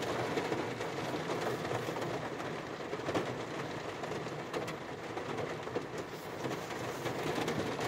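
Heavy rain drumming on a car's roof and windshield, heard from inside the car: a steady hiss with scattered sharper drop hits.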